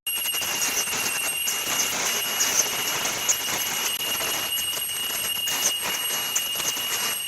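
Automatic PP mesh bag cutting and sewing machine running, a steady mechanical clatter with a continuous high whine and scattered light clicks.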